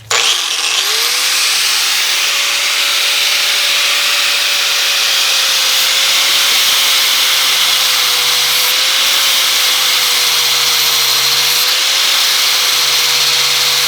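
Angle grinder fitted with a flap disc starting up, its whine rising in the first second, then running steadily as it grinds down a bent metal tab on a motorcycle frame.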